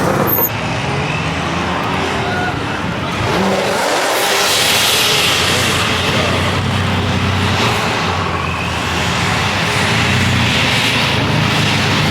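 Car engines and exhausts running loudly, with the noise swelling about four seconds in and again near the end as cars rev or drive past.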